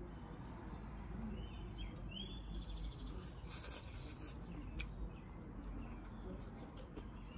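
Steady low outdoor background noise with a bird chirping briefly about two seconds in: a quick rising call followed by a fast trill. A few faint clicks come later.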